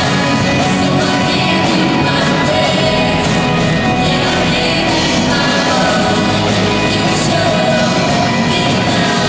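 Live band playing a rock-style song, with singing over it, loud and continuous.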